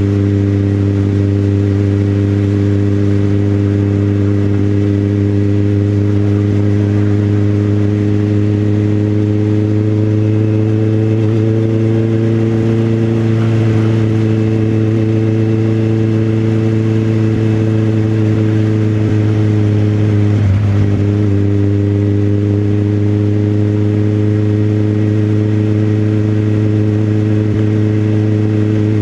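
Motorcycle engine running at steady, even revs while riding, its pitch rising slightly through the middle and easing back, with a brief dip about twenty seconds in.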